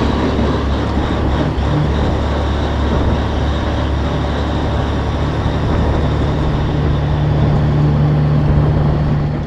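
Semi truck's diesel engine running under a load, a steady low drone that grows a little louder about six seconds in and drops away at the end.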